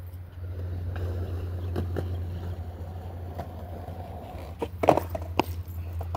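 Skateboard wheels rolling over concrete with a steady rumble, broken by a few sharp clacks of the board, the loudest two in quick succession about five seconds in.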